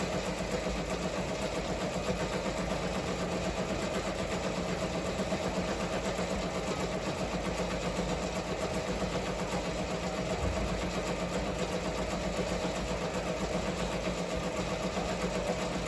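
Ricoma MT-1501 multi-needle embroidery machine running steadily, stitching a design at a fast, even pace.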